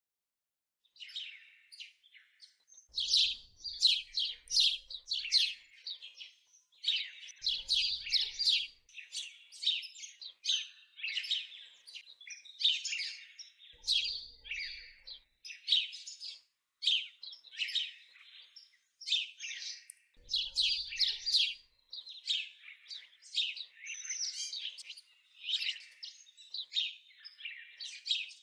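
Songbirds chirping and twittering in quick, overlapping bright calls, coming in bunches with short pauses between them. The singing begins about a second in.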